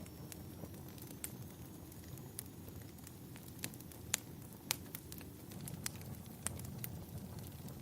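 Wood fire crackling in a fireplace: irregular sharp pops and snaps over a low, steady rumble, with the loudest pops a little past halfway.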